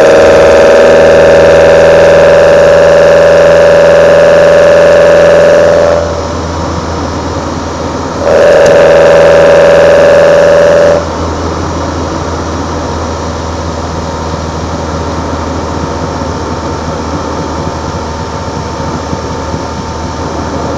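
Kadett GS 16v four-cylinder engine breathing through twin side-draft Solex C40 ADDHE carburetors, held loud and steady at high revs under throttle. The throttle closes suddenly about 6 seconds in, opens again to the same steady high-rev intake sound about 2 seconds later, and closes again about 11 seconds in, leaving a quieter steady rumble.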